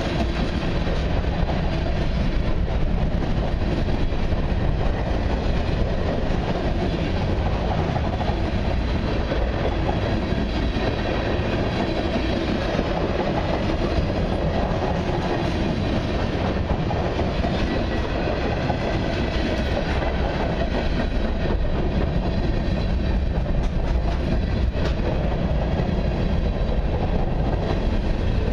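Freight cars (tank cars and covered hoppers) rolling past close by: steady noise of steel wheels running on the rails, with no break in the sound.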